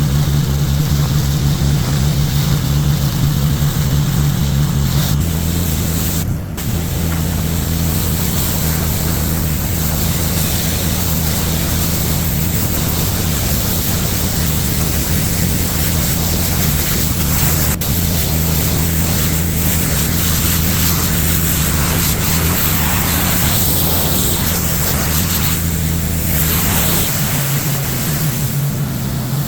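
Pressure washer's gas engine running steadily under load, with the hiss of high-pressure water spraying onto concrete. The engine note shifts slightly about five seconds in and again near the end, and the spray briefly drops out about six seconds in.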